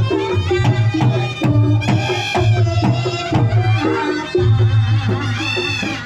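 Reog Ponorogo ensemble playing: a slompret (double-reed shawm) melody that bends and glides in pitch, rising and falling near the end, over a steady pattern of kendang drum strokes and a low sustained ringing.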